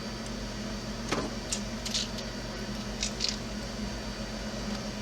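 A few light clicks and rattles of small parts or tools being handled at the workbench, in two small clusters about a second in and about three seconds in, over a steady low hum.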